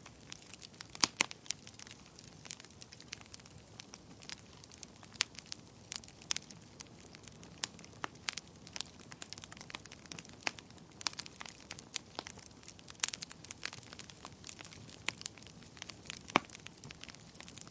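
Wood fire in a fireplace, logs burning with a steady low hiss and frequent sharp, irregular crackles and pops.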